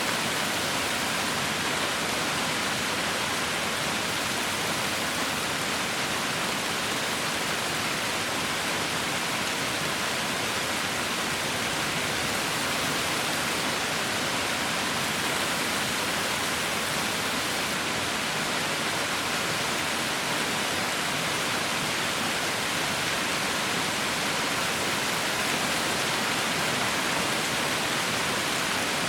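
Heavy rain falling steadily, a continuous even hiss with no distinct drops or thunder.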